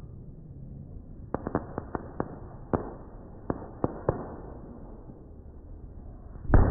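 Fireworks going off: a quick string of about ten sharp cracks over some three seconds, then one much louder bang near the end.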